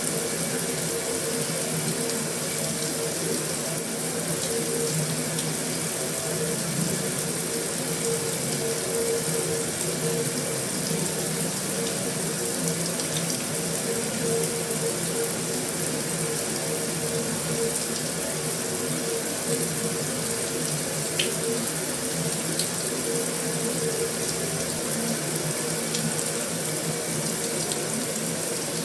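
Heavy rain falling steadily on a metal roof: an even, unbroken hiss with a few single louder drop ticks.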